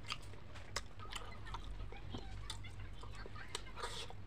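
Close-up mouth sounds of someone eating fried fish by hand: chewing and lip-smacking, with scattered sharp wet clicks a few times a second over a low steady hum.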